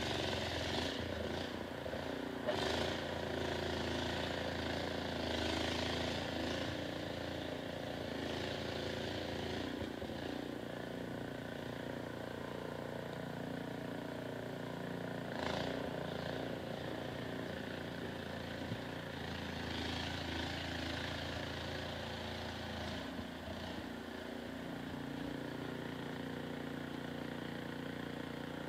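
An engine running steadily, its pitch and strength shifting a couple of times, with two short knocks.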